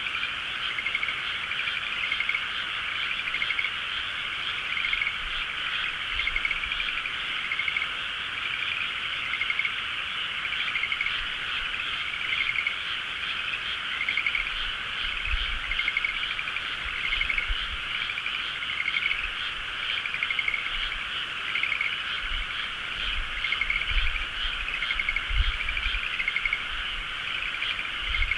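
A dense chorus of many frogs calling at once: a constant croaking din, with pulsed trilling calls repeating about once a second over it.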